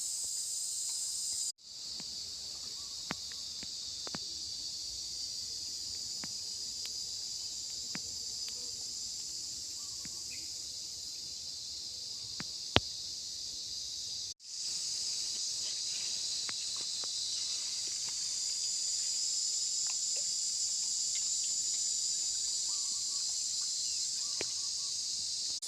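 Steady high-pitched chorus of insects with scattered faint clicks and one sharp click near the middle. The sound drops out and fades back in twice.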